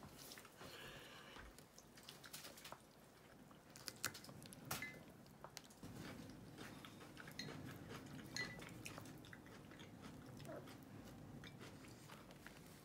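Faint close-up eating sounds: soft chewing and biting of salad and an almond-flaked pastry, with a few light clicks of tableware.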